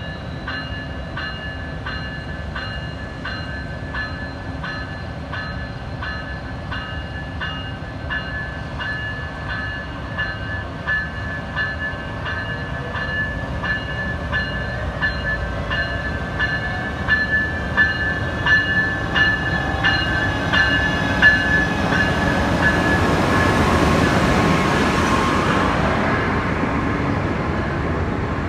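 Siemens Charger diesel-electric locomotive pulling away from a station stop and passing close by, its bell ringing steadily at about one and a half strokes a second over the low engine rumble. About 23 seconds in, the engine and wheel noise swell loud as the locomotive and passenger cars go past, and the bell fades.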